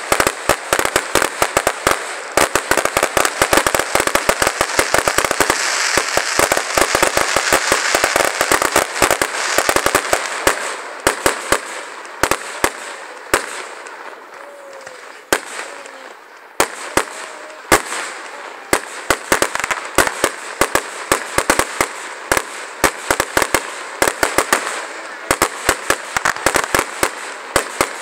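Fireworks crackling: a fast run of sharp pops and cracks, densest in the first ten seconds. It thins out around the middle and picks up again toward the end.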